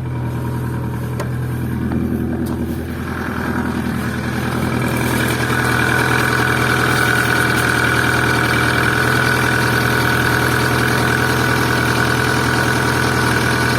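Opel C20XE 2.0-litre 16-valve four-cylinder engine idling steadily just after a cold start, its hydraulic valve lifters quiet after a brief cold tap, the first sign that cleaning them worked. A little over three seconds in the sound grows louder and a higher steady whine joins in.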